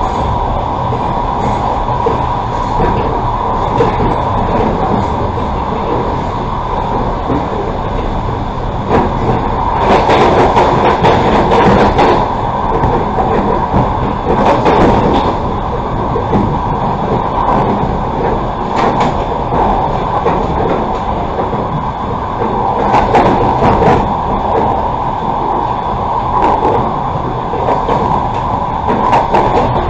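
Passenger railway carriage running along the track: a steady rolling rumble of wheels on rail with a persistent hum and scattered clicks. It grows louder for a couple of seconds about a third of the way in and again about three quarters of the way through.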